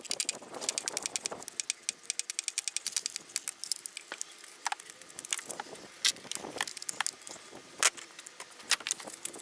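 Hand work in a car's engine bay: a quick run of rapid, even clicks in the first second and a half, then scattered light clicks, taps and rattles of tools and plastic clips and parts being handled.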